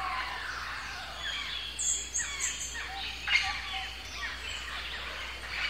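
Several birds chirping and singing in overlapping short calls over steady outdoor background noise, with a few very high, short calls about two seconds in.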